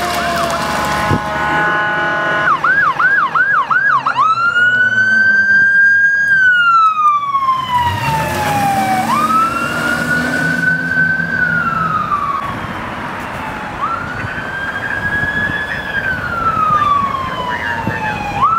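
Electronic siren of a responding fire apparatus running code 3: a short burst of fast yelp, then a slow wail rising and falling every four to five seconds.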